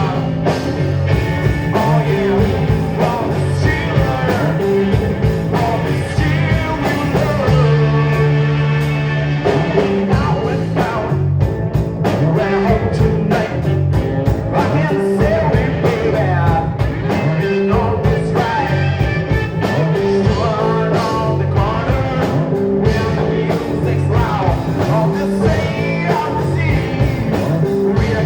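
A rock band playing live, with a singer's voice over guitars, bass and drums.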